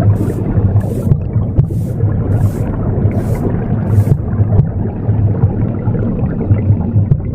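Womb sound, a low steady whooshing rumble, mixed with a broom sweeping: about six brisk, hissing strokes in the first four seconds, then the broom stops while the womb sound goes on.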